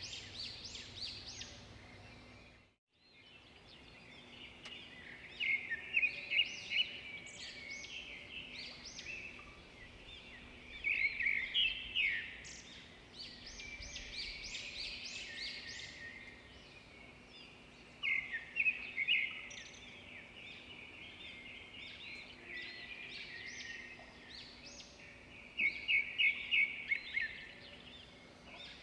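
Swiftlets twittering in bursts of rapid, high chirps that come back every six or seven seconds, over a steady low hum. The sound drops out completely for a moment about three seconds in.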